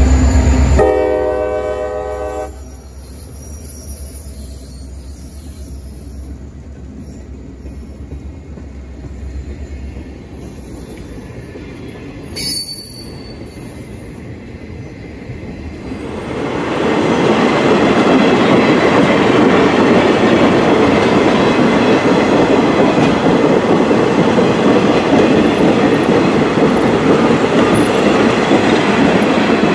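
A CSX diesel locomotive sounds its horn briefly near the start as it rolls past, its deep engine rumble fading while freight cars follow. From about halfway through, old passenger cars roll past close by with loud, steady wheel-on-rail noise.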